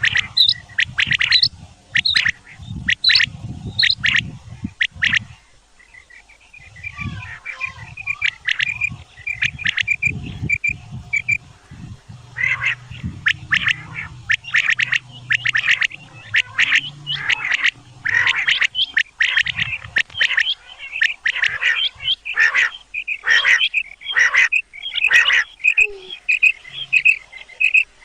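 Game birds calling over and over in rapid, harsh, rasping series, several calls overlapping, as played to lure birds for hunting. A quieter stretch of chirping comes about a quarter of the way in, and a low rumble runs under much of the first half.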